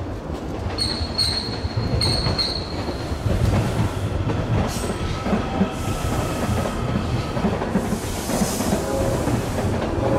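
Rumble of a train out of sight, growing a little louder after the first few seconds, with a few short high-pitched chirps near the start.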